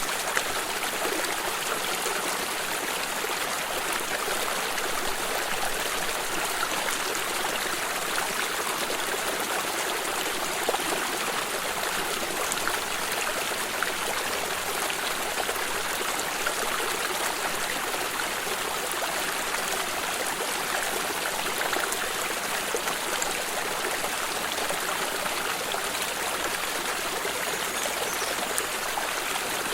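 Water stream flowing, a steady, even rushing that does not change.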